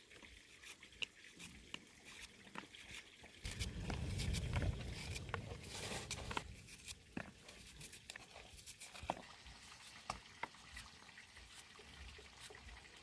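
Rain dripping and pattering: scattered irregular drops ticking. A louder, muffled stretch of a few seconds comes about three and a half seconds in.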